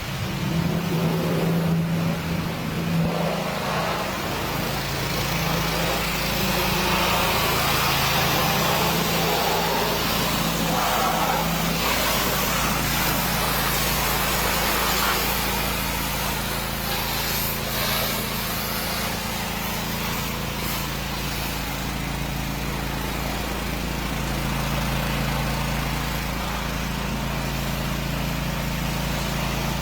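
A car-wash pressure washer runs steadily with a steady motor hum and a broad hiss of spraying water.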